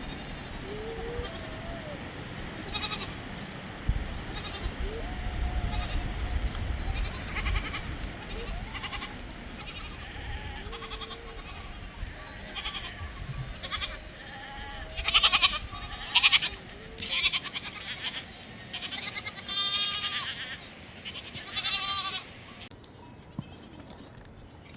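A flock of goats and sheep bleating, with many overlapping calls. They are scattered at first and grow louder and more frequent in the second half.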